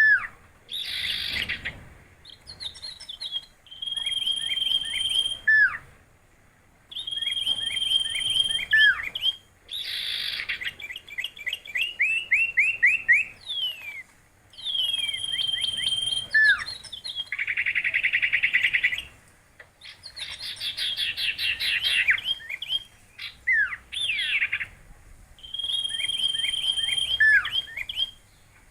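A songbird singing in repeated phrases: a long steady whistled note, then quick down-slurred notes and fast trills or rattles, with brief pauses between phrases.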